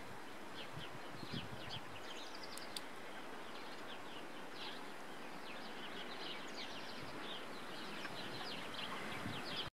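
Small songbirds chirping, many short high calls overlapping and repeating, over a steady outdoor hiss.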